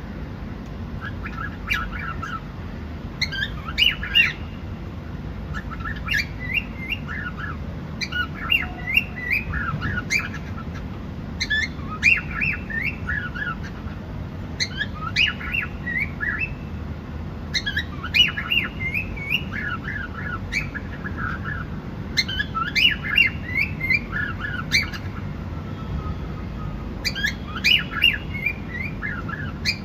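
Cockatiel chirping and squawking in short runs of quick chirps, one run every two or three seconds, over a steady low hum.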